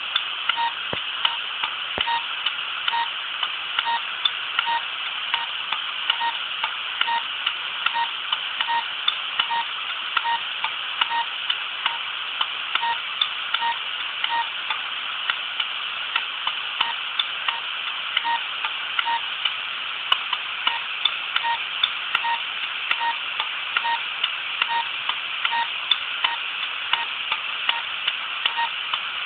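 Opened computer hard drive running with a steady hiss. A short tick repeats at an even pace, a little more than once a second.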